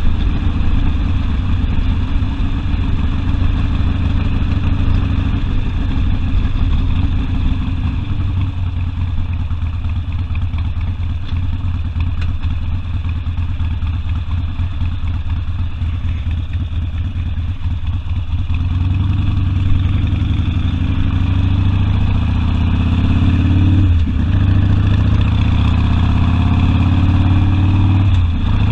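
Harley-Davidson Sportster V-twin engine and exhaust heard while riding, running at a steady low pitch at first. In the last third it revs up under acceleration, with a sharp drop in pitch twice near the end as it shifts up a gear.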